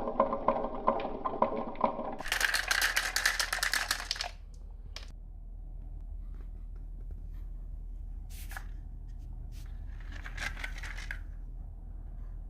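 Marbles clattering down wooden marble-run slopes: a fast run of ringing wooden clacks, then a brighter, denser rattle for about two seconds, stopping about four seconds in. After that only a few single clicks and a short rattle about ten seconds in.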